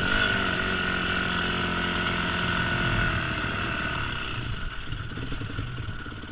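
Yamaha YZ250F's single-cylinder four-stroke dirt-bike engine running, its revs dropping a couple of times and the sound fading away over the last couple of seconds.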